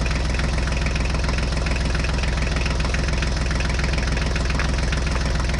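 Tractor engine sound running steadily at an idle-like pace, a fast, even chugging with a constant low hum.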